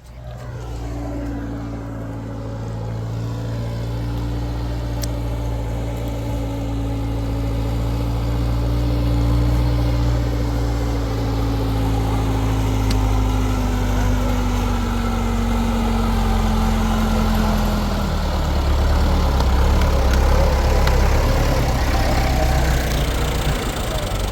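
A motor running steadily with a low hum. A higher tone in it slowly drops in pitch over the first eighteen seconds or so.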